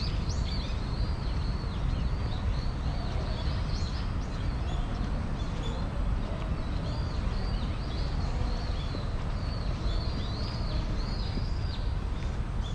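Small birds chirping almost continuously in many short, overlapping arched calls, over a steady low rumble.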